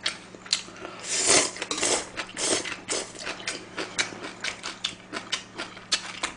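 Close-miked eating sounds: wet chewing and mouth smacks in quick irregular clicks, with a metal ladle clinking and scraping in a pan of soft-tofu stew. The loudest chewing comes about a second to three seconds in.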